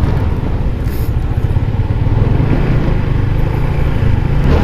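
Motorcycle riding noise picked up by an earphone mic with a foam cover inside a helmet: a steady low wind rumble mixed with the engine running at cruising speed. A brief hiss comes about a second in.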